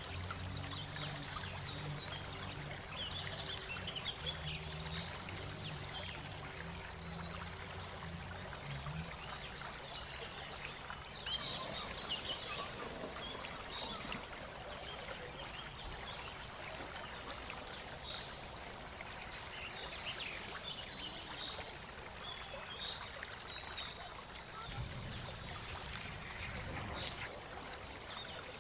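Shallow stream water flowing and trickling over rocks, steady, with small splashy flecks throughout. A low steady hum runs under it for roughly the first nine seconds.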